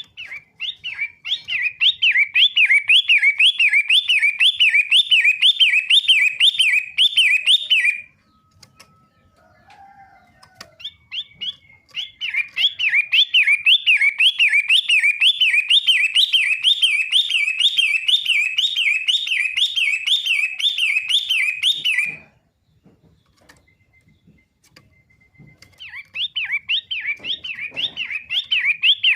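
Long-tailed shrike (pentet) singing: long runs of fast, evenly repeated rising-and-falling chirps, about two or three a second, broken by pauses of a few seconds between runs.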